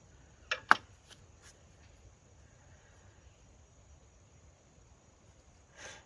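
Two sharp knocks about half a second in, the second the loudest, then a few faint clicks and a short soft scrape near the end: brake parts and tools being handled during a brake job.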